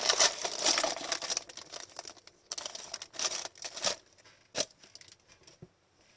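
Wrapper of a hockey card pack being torn open and crinkled by hand, then the cards being handled. The crinkling fades out after about four seconds, leaving a few soft clicks.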